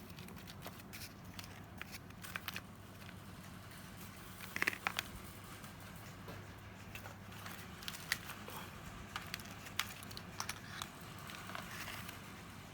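Scattered light clicks, taps and small clatters of parts and hand tools being handled during work on a cordless impact wrench, with a short cluster of knocks about five seconds in, over a faint steady low hum.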